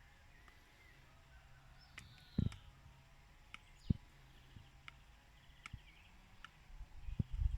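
Birds chirping in thin, falling calls, with scattered sharp taps and a few soft thumps. The taps become busier near the end.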